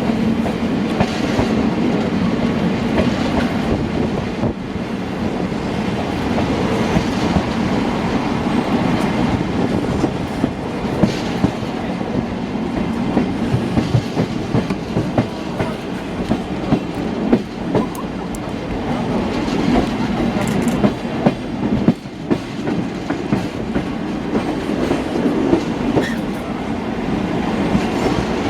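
Passenger train running at speed, heard from on board: a steady rumble with the wheels clicking over rail joints again and again.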